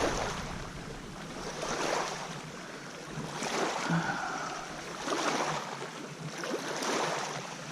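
River waves washing and splashing along the shore, in swells that rise and fall every second or two.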